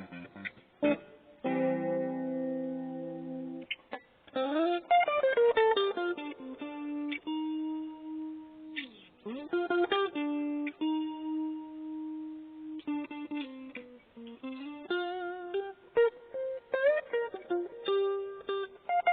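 Cheap maple-body guitar playing solo. A held chord about two seconds in, then a single-note melody with sliding notes and long sustained notes.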